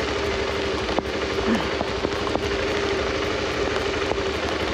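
Heavy rain pouring down, with sharp taps of drops striking close to the microphone, over a steady motorcycle engine hum.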